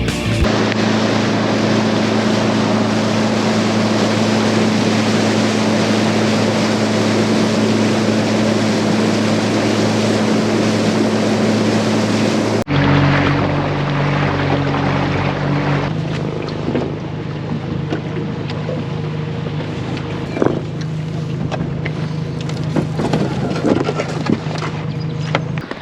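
Boat outboard motor running steadily under way, with wind and water rush. About halfway through, the sound cuts abruptly to a quieter passage with a different steady motor tone.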